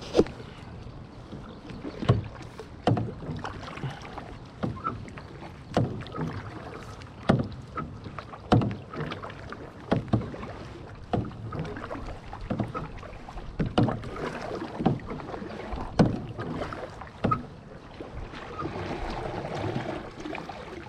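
Kayak paddling: a sharp splash or knock from the paddle about every second or second and a half, with water noise between strokes.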